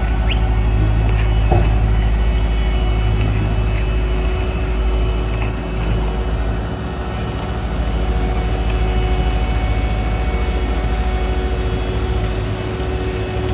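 Heavy diesel road-paving machinery running steadily: a loud, deep rumble with a constant hum over it.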